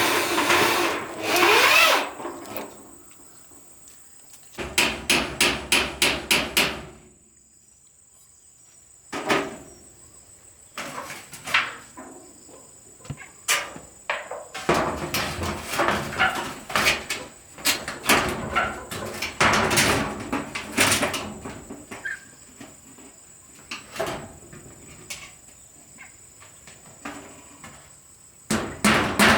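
Hammering: quick runs of hammer blows, about four a second, broken by short pauses.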